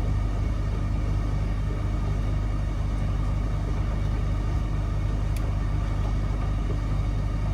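Miele W1 front-loading washing machine running steadily, a deep, even rumble with a low hum.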